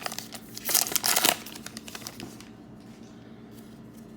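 Crinkly trading card pack wrapper being torn open and crumpled, loudest about a second in, then settling to a faint steady hum.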